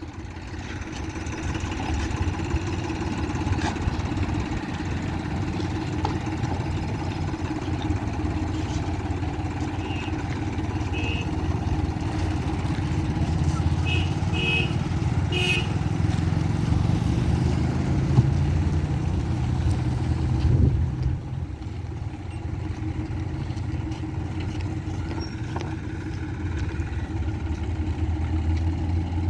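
Engine of road-repair machinery running with a steady low drone, a little louder in the middle and easing back about two-thirds of the way through. A few short high beeps sound near the middle.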